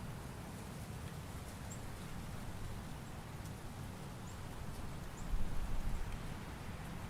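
Outdoor autumn woodland ambience: a steady low wind rumble with light rustling and ticking of leaves, a few faint high chirps, and a stronger gust of wind on the microphone a little past five seconds in.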